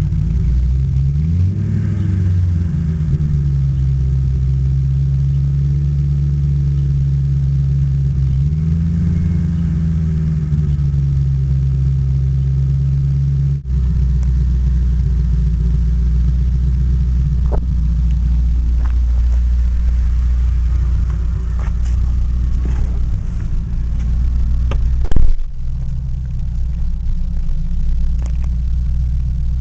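A 1994 Mercury Cougar XR7's 4.6 V8 running with its mufflers cut off and no tailpipes, a loud open-exhaust rumble. It is blipped up and settles back twice in the first half, then runs steadily. A single sharp bang about 25 seconds in is the loudest moment.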